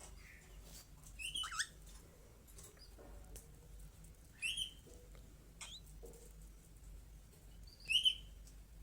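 A small pet bird giving short, squeaky calls: four of them a few seconds apart, the last the loudest.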